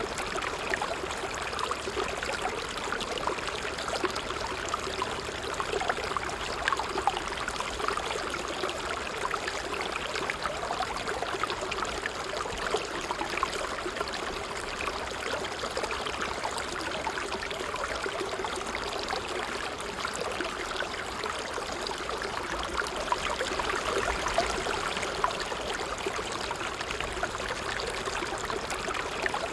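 Water trickling steadily, a continuous babble of small splashes and bubbling with no pauses.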